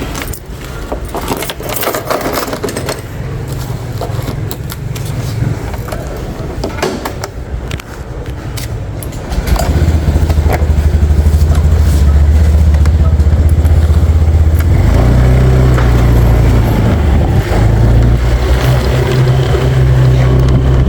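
A small engine running loudly with a steady low rumble, setting in abruptly about nine and a half seconds in; before that, scattered knocks and clatter.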